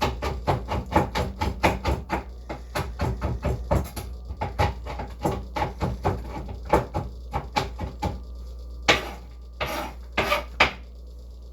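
A rapid, even run of sharp knocks on a kitchen work surface, about three to four a second, for some eight seconds, then three longer noisy sounds a little over half a second apart.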